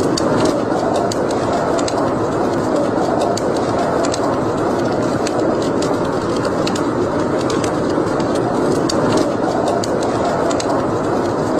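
Wood fire burning in a fireplace: a steady rushing sound with frequent sharp crackles and pops.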